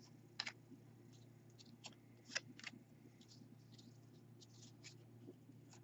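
Faint scattered clicks and rustles of trading cards and rigid plastic top loaders being handled, over a low steady hum.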